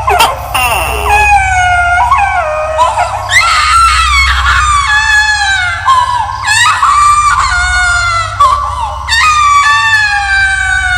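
A series of high-pitched wailing screams, many sliding down in pitch, over a steady low drone: a horror sound effect of an eerie screaming voice.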